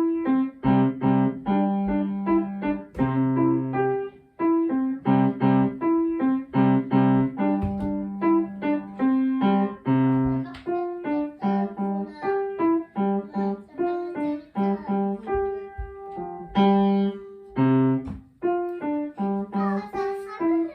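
Piano playing a simple beginner's piece: a short-note melody over lower chords and bass notes, in a steady even rhythm.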